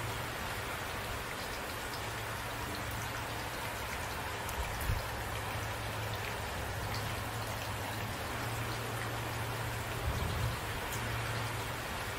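Steady rain falling, with single drops ticking on a surface over an even hiss, and two brief low bumps about five and ten seconds in.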